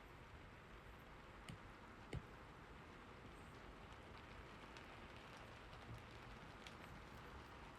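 Quiet steady rain, an even hiss with scattered light drop ticks, and a single soft knock about two seconds in.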